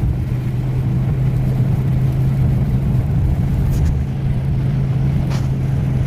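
Steady low drone of road and engine noise inside a car's cabin as it drives along a snowy highway, with a couple of faint clicks in the second half.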